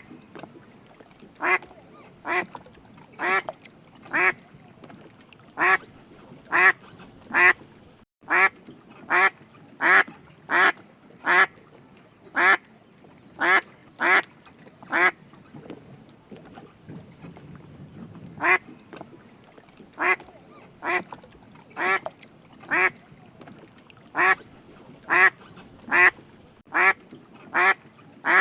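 A duck quacking over and over: short, loud quacks about one a second in runs, with a pause of about three seconds just past halfway.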